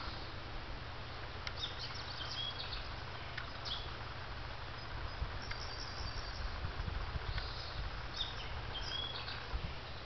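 Small birds chirping in short, high phrases, once in the first few seconds and again near the end, over a steady low rumble.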